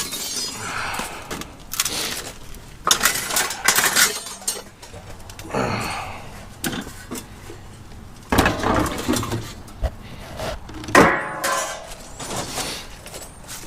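Pieces of scrap metal clanking and clattering as they are handled and thrown onto a pile, with sharp knocks every few seconds.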